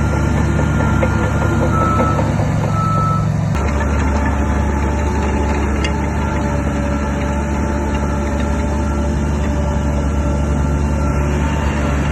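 Heavy earthmoving machinery running with a steady low diesel drone, and a reversing alarm beeping over it. The engine sound changes abruptly about three and a half seconds in.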